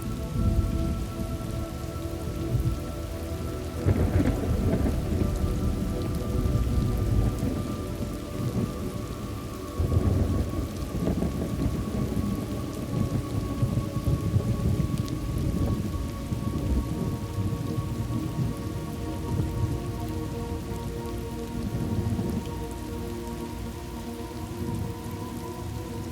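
Thunderstorm ambience: steady rain with rolling thunder, the rumble swelling about four seconds in and again about ten seconds in.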